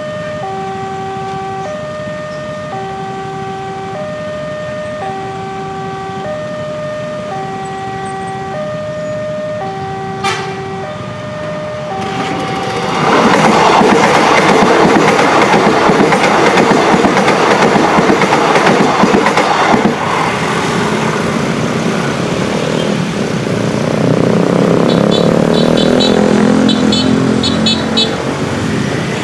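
Railroad crossing alarm sounding, two electronic tones alternating steadily. About 12 seconds in, an electric commuter train passes close by and its wheel-on-rail noise drowns out the alarm. The noise eases in the last seconds, with a humming tone from another train coming up the line.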